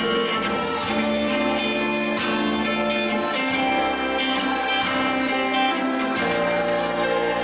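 Live worship band music with guitar, sustained chords and a steady beat.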